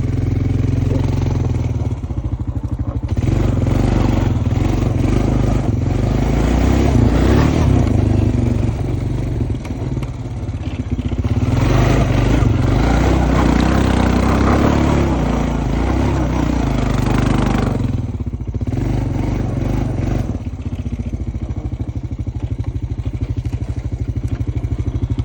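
Honda Foreman ES ATV engine running while being ridden, the throttle opened into two longer, louder, rougher stretches and eased off in between, with the machine rattling over the ground.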